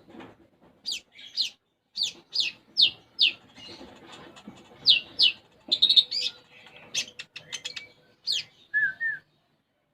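Olive-backed sunbird (konin) singing a fast song of sharp, quickly falling chirps, about two a second, breaking into a denser run of chirps and short trills and ending in two lower whistled notes. The song is filled with mimicked Eurasian tree sparrow chirps.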